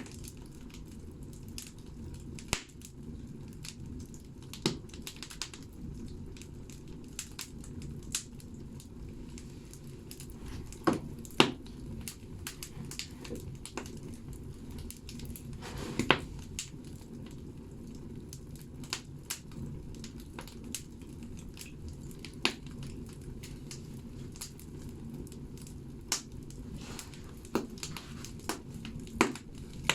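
Firewood logs burning in a wood stove: a steady low rush of the fire with irregular sharp crackles and pops, a few louder snaps scattered through.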